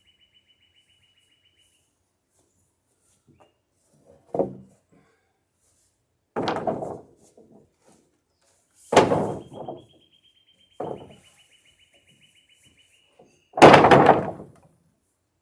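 Wooden boards knocking and clattering as they are shifted in a lumber pile: five separate knocks, the loudest near the end. A bird gives a steady, fast trill at the start and again in the middle.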